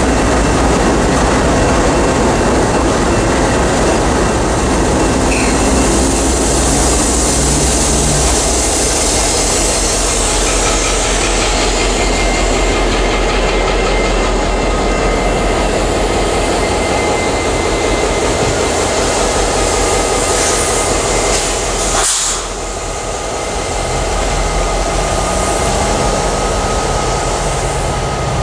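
Freight train running past close by: a steady loud rumble of diesel locomotives and wheels on rail. About 22 seconds in the sound cuts off suddenly, then a diesel locomotive is heard approaching, quieter at first and growing louder.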